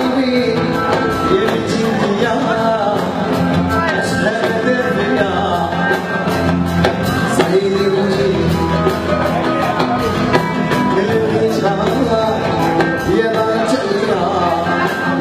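Live band music: an instrumental passage with a melodic lead line over a steady percussion beat, with no sung words.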